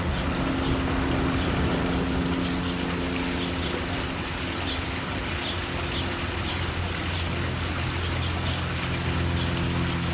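A steady engine hum, a low drone whose pitch shifts slightly partway through, over a noisy background, with a few faint short high chirps.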